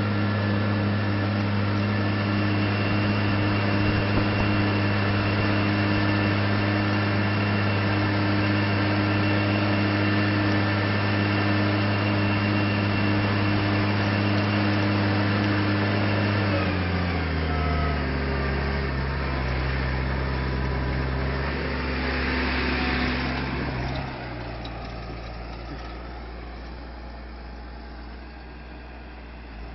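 New Holland T7040 tractor's diesel engine running steadily at working speed, then slowing to a lower, steady speed over a couple of seconds about two-thirds of the way through. A brief hiss follows, and near the end the engine sound drops markedly in loudness.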